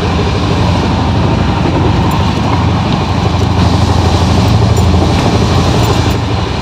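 Steady rumble of a moving passenger train coach, heard from inside the compartment, with faint crinkling of aluminium foil being handled.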